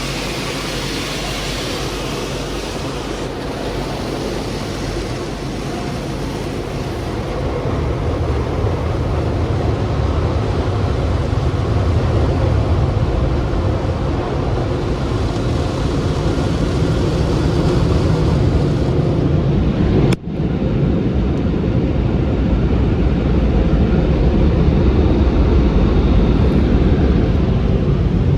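Machinery of a Sonny's car wash tunnel running: a steady rushing noise with a heavy low rumble that builds and grows louder, with a momentary dropout about twenty seconds in.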